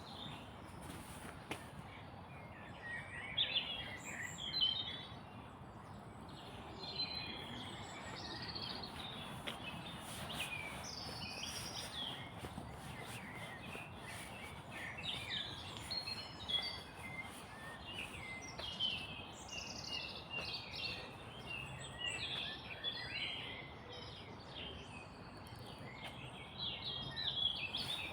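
Several small songbirds chirping and singing in woodland, short twittering phrases coming one after another, over a steady background rush.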